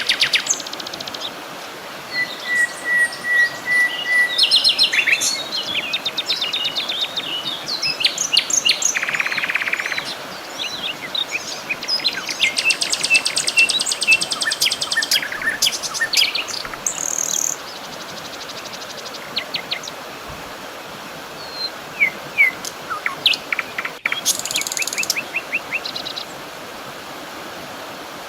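Several songbirds singing and calling at once: quick chirps, rapid trills and short whistles, over a steady background hiss.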